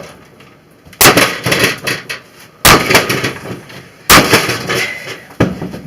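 Sledgehammer blows smashing a wrecked microwave oven's metal casing: three heavy crashes about a second and a half apart, each trailing off in a clatter of loose pieces, then a lighter knock near the end.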